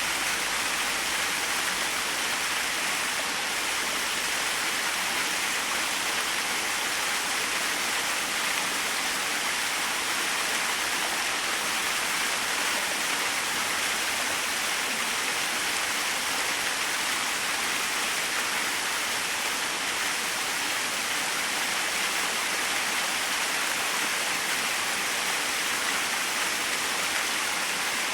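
Small waterfall splashing steadily, an even rushing hiss that holds constant without breaks.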